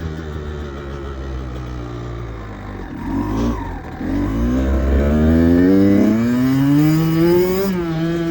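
Vehicle engine under way: low and steady at first, then accelerating about halfway through, its pitch climbing for several seconds before dropping back near the end as the throttle eases or it shifts.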